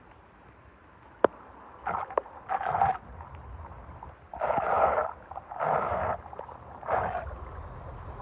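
A sharp click, then a series of short splashes in water, about a second apart, over a low steady rush of water.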